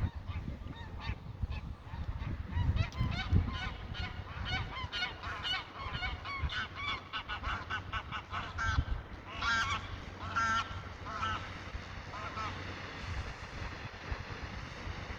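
Greylag geese honking: many short, nasal calls from several birds overlapping in quick succession, thinning out and stopping a few seconds before the end.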